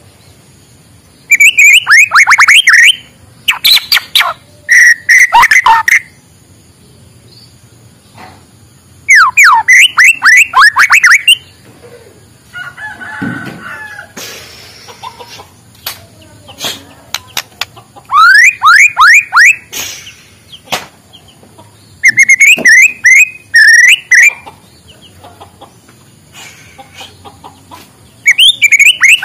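White-rumped shama (murai batu) singing loudly and close up: bursts of rapid, sweeping whistled notes, phrases of one to two seconds repeated every few seconds with short pauses between them.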